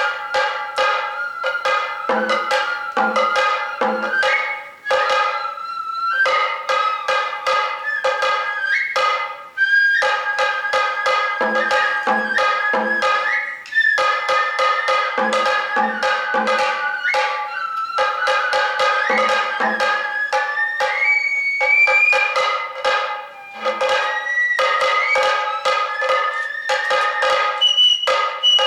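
Sato kagura hayashi music: a bamboo flute playing a sliding melody over a rapid, steady beat of drum strokes, with clusters of deeper drum hits every few seconds.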